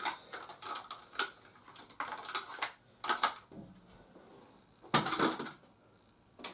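Cardboard shipping box and its corner protectors being handled and pulled apart: irregular taps, crinkles and scrapes, with a louder scrape about five seconds in.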